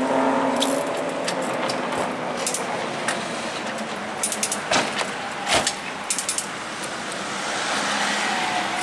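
A steady engine-like tone that stops about a second in, leaving a steady rushing vehicle noise with a cluster of sharp metallic clicks and clinks in the middle.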